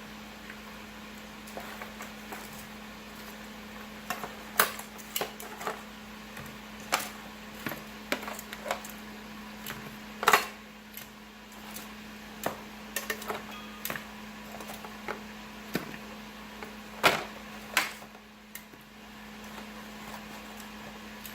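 Chicken wings being tossed in hot sauce in a bowl: a utensil clinks and knocks irregularly against the bowl, with several sharper knocks, over a steady hum.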